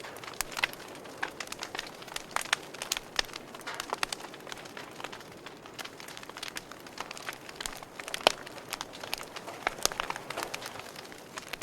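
Wood fire crackling: irregular sharp pops and snaps over a soft hiss, with the loudest pop about eight seconds in.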